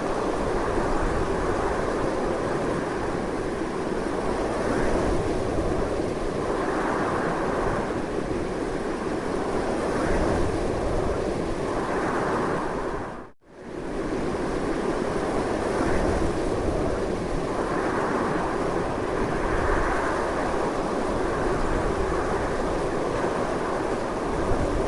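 Strong wind blowing continuously, swelling and easing in gusts every few seconds. About halfway through it dips away to almost nothing for a moment and then comes straight back.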